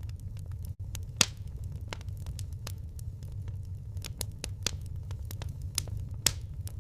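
Firewood burning, crackling with scattered sharp pops over a steady low rumble of the flames; the loudest pops come about a second in and again near the end.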